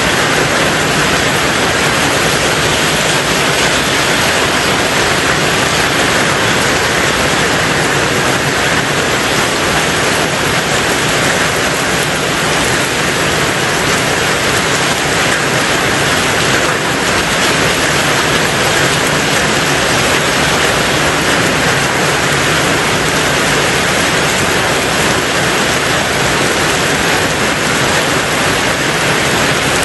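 Steady heavy rain drumming on a tin roof, a dense, even hiss with no distinct drops or gusts standing out.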